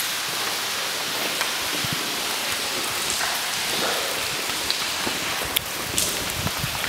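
Steady hiss of falling rain and water, with a few scattered light ticks.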